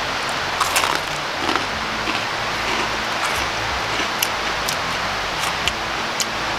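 A steady rushing noise with about a dozen short, sharp crunches scattered through it: a person chewing crisp, slightly overcooked pizza crust.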